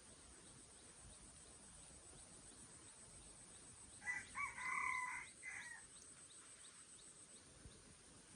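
A rooster crowing once, about four seconds in: a short opening note and then a long held note, under two seconds in all.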